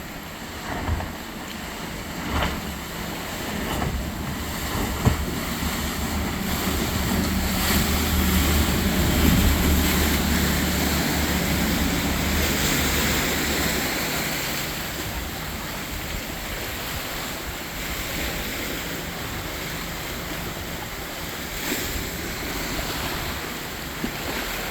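Choppy canal water splashing and slapping, with a passing motorboat's engine drone that builds to its loudest about a third of the way in and then fades away. Wind buffets the microphone.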